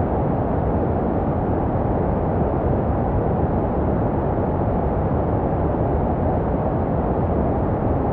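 Steady, unchanging white noise for baby sleep, a deep even rushing with most of its weight in the low end and little hiss. It is made to resemble the sound heard in the womb.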